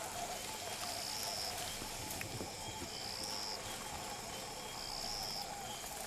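Night ambience of insects: a steady background buzz with a high, drawn-out chirp repeating about every two seconds.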